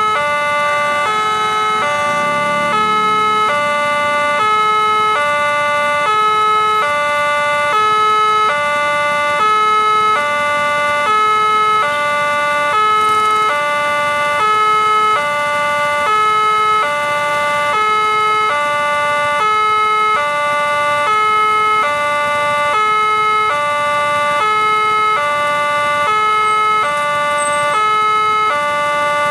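Railway level-crossing warning alarm sounding: an electronic two-tone signal alternating evenly between a higher and a lower tone, switching about every 0.8 s, warning of an approaching train.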